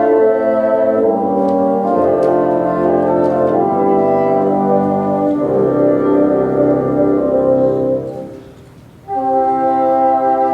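Bassoon ensemble playing slow, sustained chords in several parts. The chord is released about eight seconds in and the ensemble comes back in about a second later.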